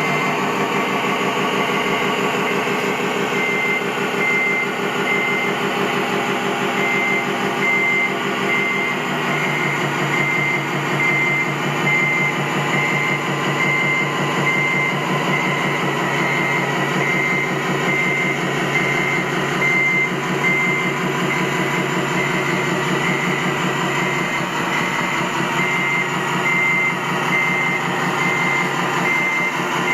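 RC construction truck's sound module playing a steady truck engine, its pitch dropping a step about nine seconds in. A few seconds in, a reversing alarm starts beeping about once a second and carries on.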